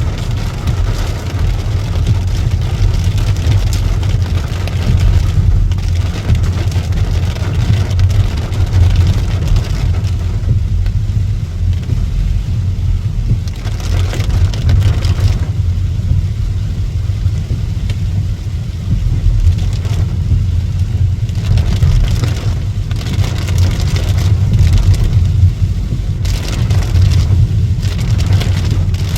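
Rain falling steadily, a dense patter with a heavy low rumble underneath that swells and eases in waves.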